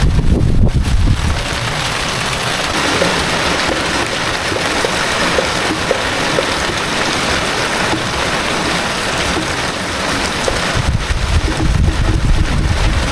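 Heavy rain falling steadily, a dense hiss of drops, with low rumbling surges about a second in and again near the end.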